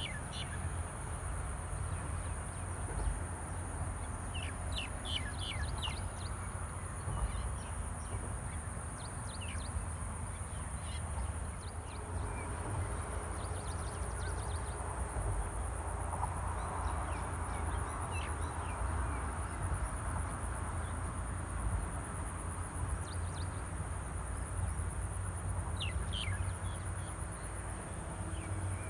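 Birds chirping in short, scattered bursts of high notes, over a steady low rumble and a constant high hiss.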